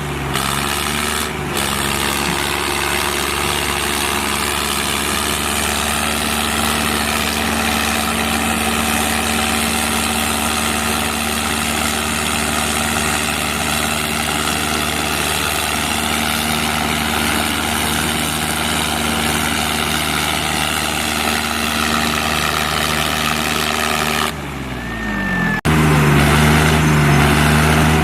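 Diesel tractor engines running steadily under heavy load in a tug-of-war pull. Near the end the engine pitch drops, then the sound cuts abruptly to a louder steady engine note.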